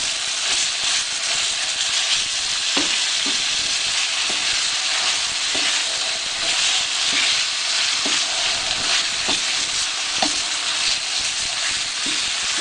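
Grated coconut, spice paste and beef sizzling steadily as they fry in a metal wok, stirred constantly with a spatula so they don't stick. Short scrapes of the spatula against the wok come about every second.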